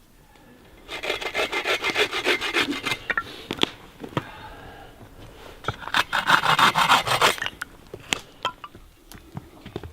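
Two bursts of fast, even rasping strokes, about five a second, the second one louder. A few sharp knocks fall between and after them.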